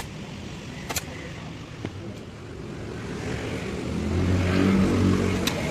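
A few sharp taps about a second apart, then a low motor hum that swells up from about three seconds in and becomes the loudest sound.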